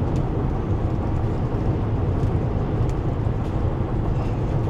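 Van engine and road noise while driving: a steady low rumble.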